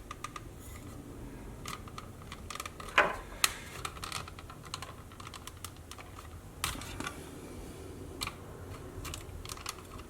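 Small screwdriver prying at the snap-together plastic case of a Sony WM-B18 Walkman: irregular light clicks and ticks of metal and plastic, with two sharper clicks about three seconds in.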